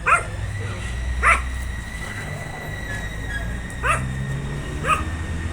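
A dog giving short, sharp barks, four of them at uneven gaps, over a steady low hum.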